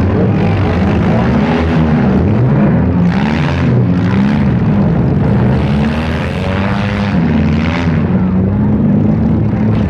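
Several demolition derby cars' engines running loud together, their pitches rising and falling as they rev while the cars push against each other.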